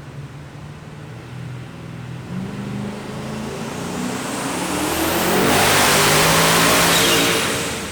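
Twin-turbo Ford Godzilla V8 in an XF Falcon making a full-load dyno pull, its pitch climbing steadily through the revs. It is loudest about two-thirds of the way in, then backs off near the end.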